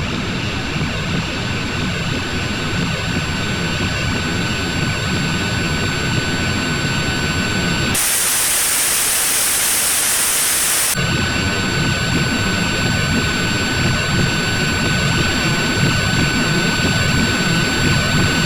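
Sound-effect low-frequency roar: a dense, steady rumble with thin steady whistling tones above it. About eight seconds in it gives way to about three seconds of hissing static interference, then the rumble and tones return.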